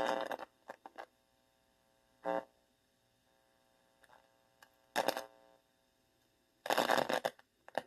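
Guitar amplifier with bare wires on its input giving a faint steady electrical hum, broken by short irregular bursts of buzz and a longer one near the end as the wire is touched. The owner takes these bursts for pulsed microwave 'V2K' signals; they sound like hum and interference picked up through the unshielded wire.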